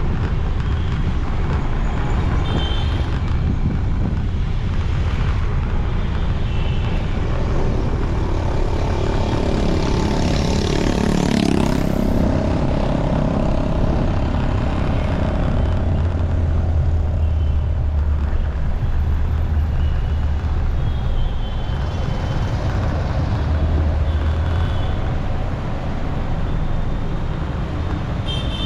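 Road and traffic noise from a moving motorcycle: a steady low rumble of engine and wind on the microphone. A large vehicle passes close about ten seconds in, its pitch falling as it goes by. A few short distant horn toots sound through it.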